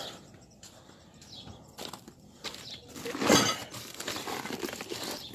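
Rustling and clicking of newly delivered truck parts and their packaging being handled, with a louder burst of rustling about three seconds in.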